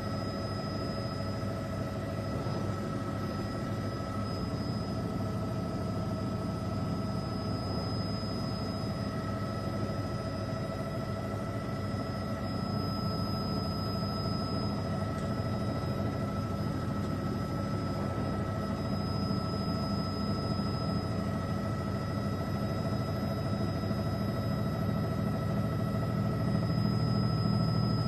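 Steady drone of a helicopter's engine and rotors heard from inside the cabin, with a few constant whining tones over a low hum; the hum grows a little louder near the end.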